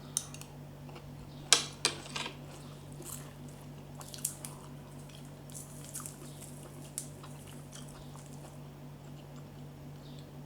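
Close-up eating of Thai santol salad: wet chewing with scattered sharp crunches, the loudest about a second and a half in, a few more around two and four seconds.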